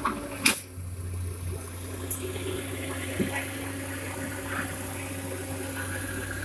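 Dump truck engine running steadily with a low hum, with a sharp bang about half a second in and a lighter knock a little after three seconds.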